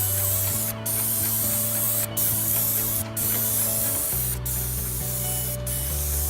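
A paint sprayer hissing steadily, the spray broken by short gaps about once a second, over a steady low hum that shifts in pitch a few times.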